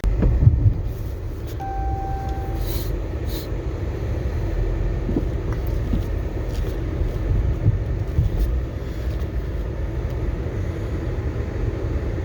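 Dually pickup truck's engine running hard under load, a steady low rumble, as it pulls on a vehicle frozen into the ground, with a short beep about two seconds in.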